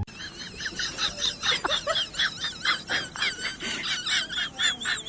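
Rapid, high-pitched chirping and squeaking from several small animals, many short chirps a second, overlapping.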